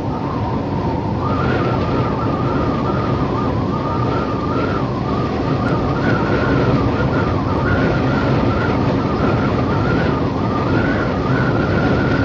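Wind blowing steadily, with a whistle that wavers slightly up and down in pitch.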